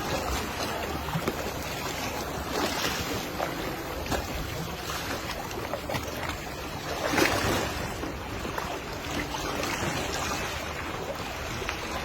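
Sea waves washing in on a beach: a steady rush of water that swells in surges, the biggest about seven seconds in.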